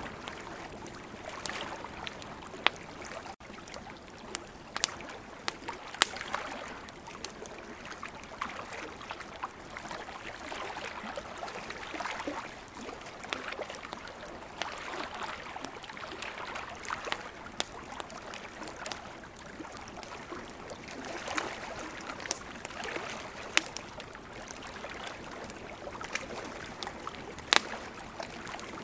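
Campfire crackling, with sharp pops scattered through it, over a steady wash of ocean waves.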